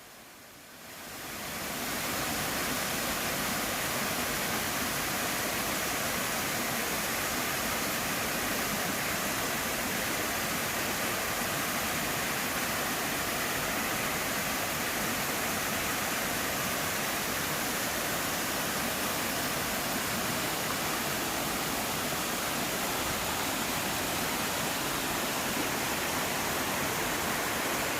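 Mountain stream rushing over rocks, a dense steady hiss of water that fades in over the first two seconds.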